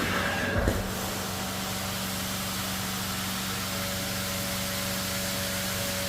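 Carpet-cleaning extraction machine running, a steady hum with a strong hiss of vacuum suction, surging louder in the first second.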